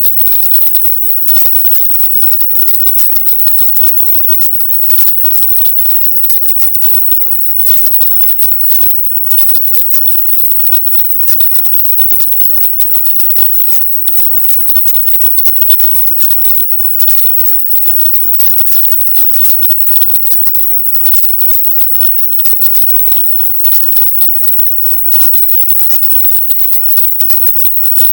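Dense, high-pitched hiss, strongest in the treble and broken by frequent brief dropouts: a 'silent subliminal' track, in which spoken affirmations are shifted up and masked into high-frequency noise.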